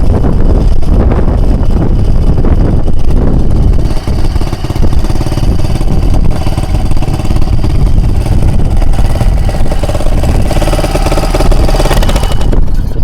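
Honda BF2.3D single-cylinder four-stroke outboard running steadily, mixed with heavy wind buffeting on the microphone. The engine's steady tone stands out more clearly near the end.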